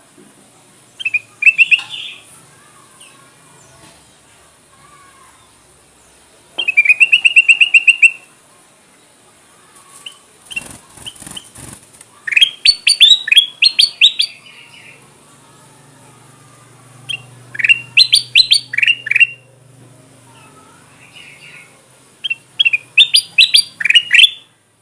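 Kutilang emas (a bulbul) calling in loud bursts of rapid, sharp chattering notes, one burst roughly every five seconds, as a lure call for wild birds. A brief rustling noise comes about halfway through.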